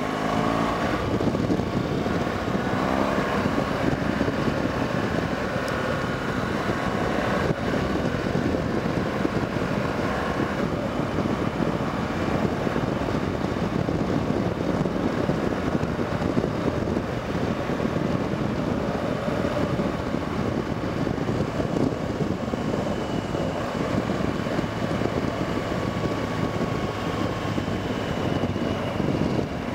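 BMW R1200GS Adventure's flat-twin boxer engine running under way, with wind noise on the microphone; the engine's pitch shifts up and down in the first few seconds, then holds fairly steady.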